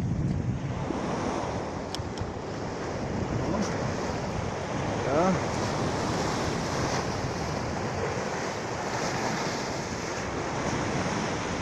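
Black Sea surf washing on the shore in a steady rush, with wind buffeting the microphone.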